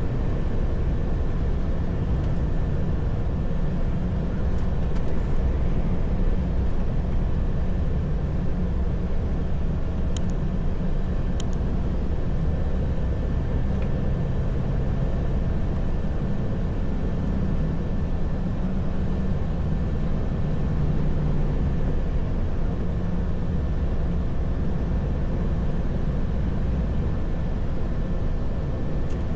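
Heavy truck driving, heard from inside the cab: a steady low drone of engine and road noise with a thin steady whine above it. Two short clicks come about ten seconds in.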